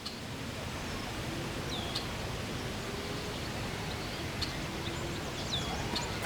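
Outdoor ambience: a steady wash of background noise, with a small bird giving a short, falling chirp about two seconds in and again near the end.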